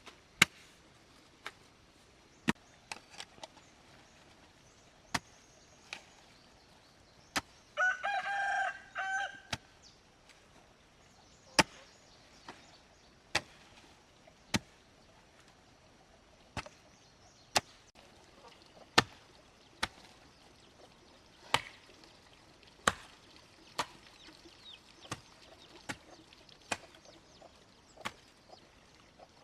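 A rooster crows once, about a quarter of the way in. Around it runs a series of sharp, irregular knocks of a tool striking wood, roughly one every second or two, as in chopping or hammering.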